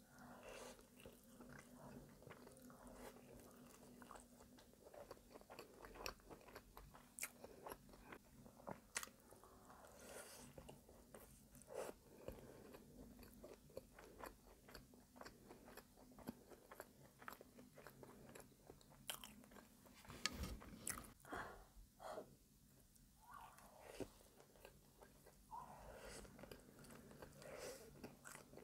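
Quiet, close-miked chewing of soft caramelized brioche French toast: a bite near the start, then steady wet mouth clicks and sticky smacks as it is chewed.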